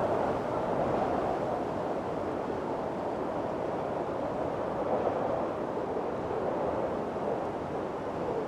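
Windstorm: a steady rushing of wind that swells and eases slowly, with no separate gusts or impacts.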